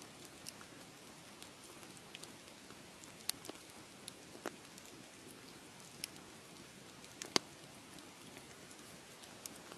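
Wood fire crackling in a fireplace: a steady soft hiss with irregular sharp pops and snaps. The loudest pop comes a little after seven seconds in.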